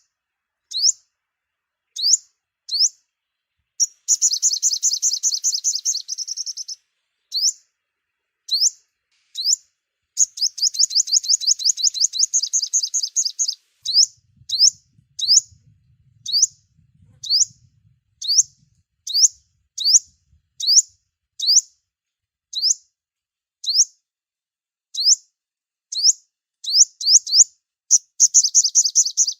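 Sunbird song: a string of short, high, upward-flicking chirps, broken by rapid trills a few seconds in, around the middle and again near the end.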